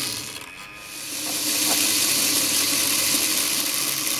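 Old Hornby Dublo class N2 model locomotive running under test, its motor and gears making a steady high whirring hiss. The sound drops away briefly just under a second in, then picks up again and runs steadily.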